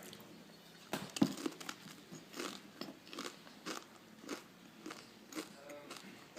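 Crunchy food being chewed: a cluster of sharp bites about a second in, then steady crunching chews about twice a second.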